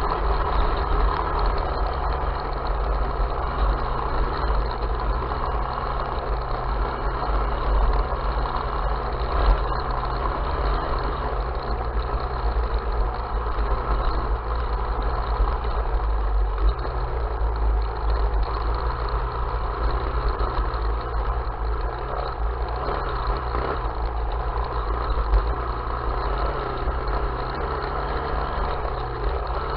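Off-road vehicle engine running at a steady speed, with no revving.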